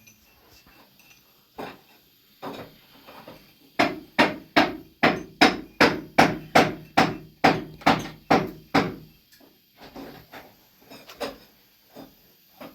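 Hammer blows during plumbing work: a few scattered knocks, then a fast even run of about a dozen strikes, two or three a second, then lighter scattered taps.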